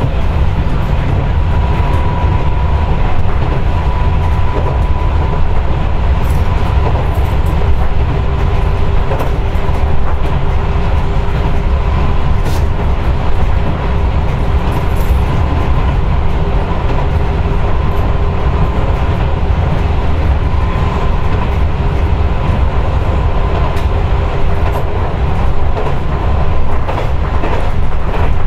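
Running sound of a 6050-series electric train car in motion, heard from inside the car: a steady rumble of wheels on rail with a faint steady whine over it and a few light clicks.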